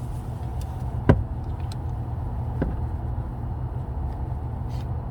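A sharp knock about a second in and a fainter one about a second and a half later, over a steady low rumble.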